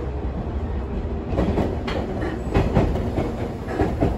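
JR Kyushu 813 series electric train running, heard inside the passenger car: a steady low rumble with scattered knocks from the wheels over the rails.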